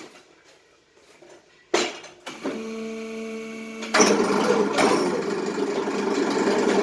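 A sharp knock, then a machine motor starts humming steadily, and about four seconds in a loud, continuous mechanical rattle sets in over the hum.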